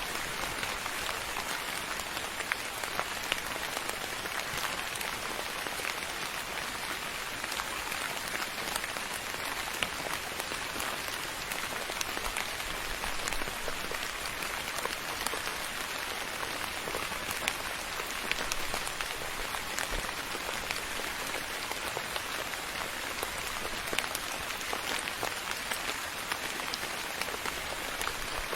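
Steady soft rain falling on a surface, an even hiss with scattered individual drops ticking through it.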